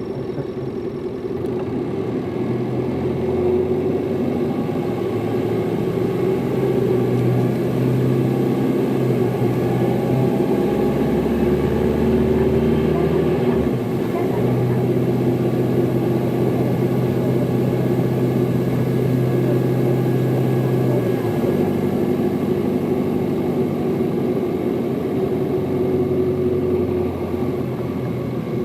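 Hino Liesse city bus's diesel engine running under way, heard from inside the bus. The engine note changes in steps a few times.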